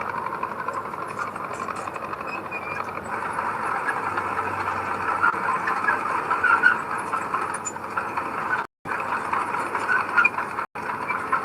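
Bulldozer working soil: a steady diesel engine with scattered squeaks and rattles over it. The sound cuts out abruptly twice near the end.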